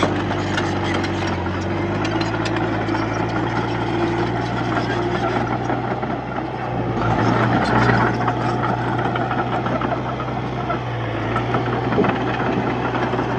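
Heavy diesel engine of a Komatsu D31P bulldozer running steadily, with scattered metallic clanks and a swell in engine sound about seven seconds in.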